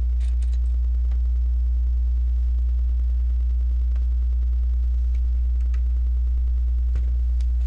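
Steady low electrical hum throughout, with a few faint clicks of plastic LEGO pieces being handled.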